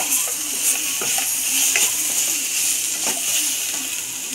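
Masala with capsicum and onion sizzling as it fries in a steel pan, stirred with a wooden spatula that scrapes and knocks against the pan now and then.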